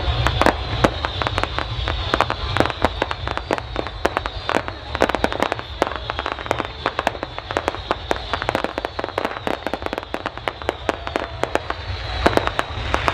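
Fireworks crackling and popping in a dense, irregular stream of sharp reports, over a steady low rumble.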